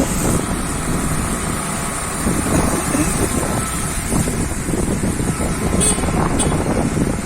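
Wind buffeting the microphone over the steady running of a vehicle engine. Two brief high clicks come near the end.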